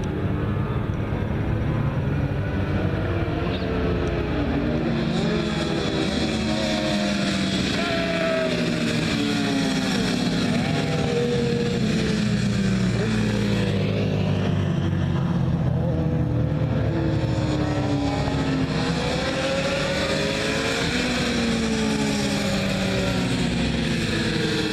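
Several sport bike engines running hard at once, their pitch climbing and dropping again and again as they accelerate and shift through the gears.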